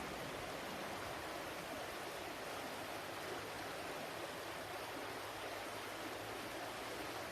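Flowing stream water, a steady rushing with no changes.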